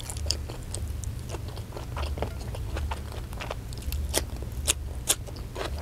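Close-miked eating: chewing with many short wet clicks and smacks of the mouth, while fingers pick rice and sambal from the plate. A steady low hum runs underneath.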